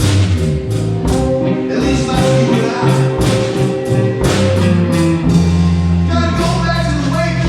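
Live blues band playing a slow blues instrumental passage, with electric guitar, harmonica, bass and drums; held bass notes under a steady drum beat.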